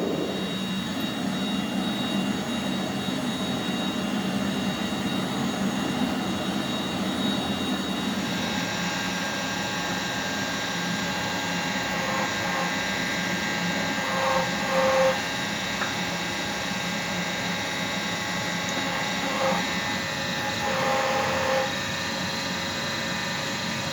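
Steady machine roar with a faint hum, as from shop equipment running. Two brief higher-pitched sounds rise above it about two-thirds of the way in and again near the end.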